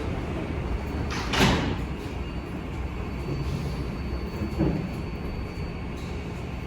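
R188 subway car's sliding doors closing, with a short rush of noise about a second and a half in, over a steady low rumble from the train.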